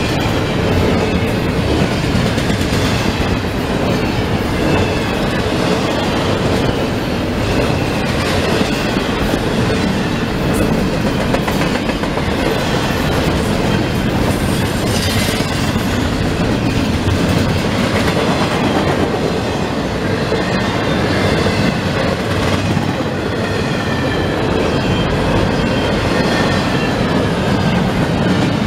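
Double-stack intermodal freight train passing close by at speed: a steady rolling rumble and clatter of steel wheels over the rails as the well cars go by.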